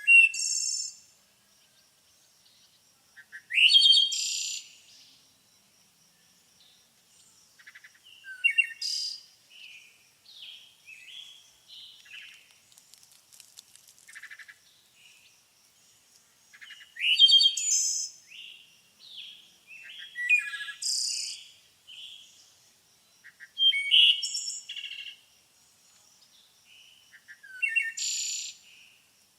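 Songbirds singing: loud, quick, high phrases every few seconds, with softer chirps in between and a faint steady high tone underneath.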